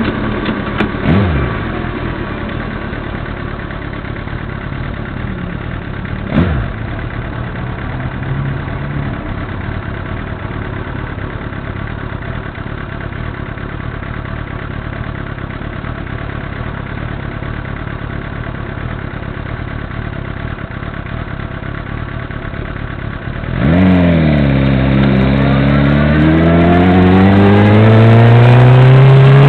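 Motorcycle engine idling steadily, with two short louder sounds about a second in and around six seconds. About 23 seconds in it gets suddenly louder and pulls away, its pitch climbing steadily as it accelerates.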